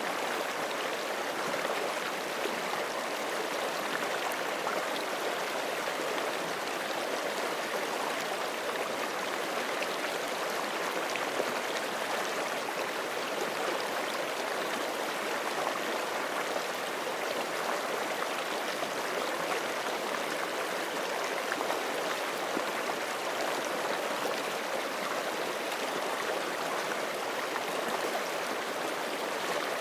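Forest creek flowing steadily over rocks: a continuous rush of running water with fine splashing and gurgling, even in level throughout.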